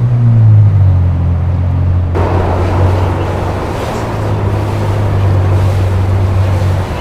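Boat engine running with a low steady drone, its pitch easing down slightly in the first second. About two seconds in, a rushing hiss suddenly joins it and carries on.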